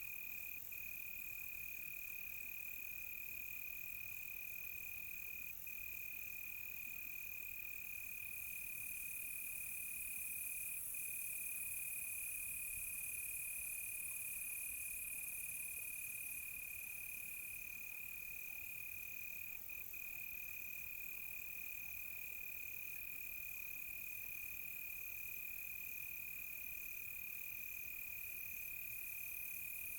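Night chorus of crickets: one steady, high single-pitched trill with a few brief breaks, over a layer of faster, higher insect chirping. A higher hiss-like insect layer swells about a quarter of the way in and fades again a few seconds later.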